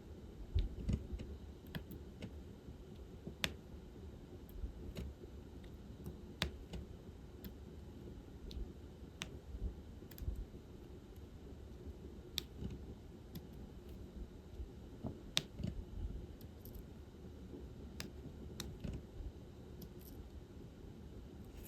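Irregular light clicks and taps of diamond painting work: a drill pen picking up beads from a tray and pressing them onto the sticky canvas, about one or two a second over a low steady hum.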